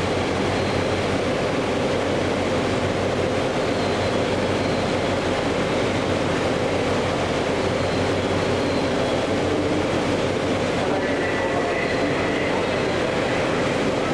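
West Kyushu Shinkansen N700S Kamome train pulling slowly into the station platform: a steady rumble of motors and wheels, with a faint whine near the end.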